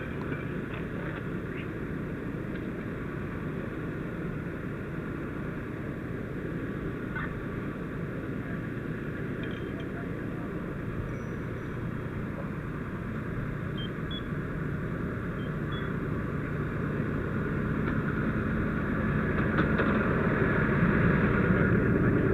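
Steady low rumble of a running vehicle engine, growing louder over the last few seconds.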